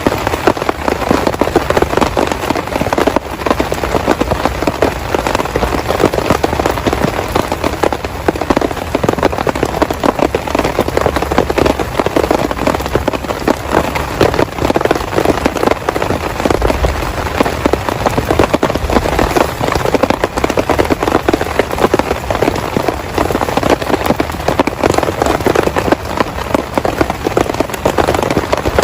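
Heavy rain falling steadily, a dense crackling patter of drops hitting a surface close by.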